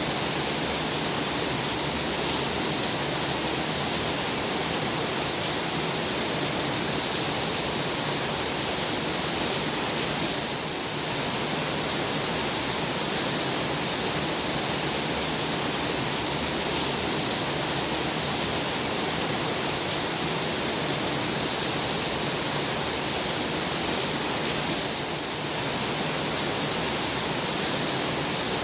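Heavy rain falling steadily as an even, unbroken hiss, with two brief slight dips in level, about ten seconds in and near the end.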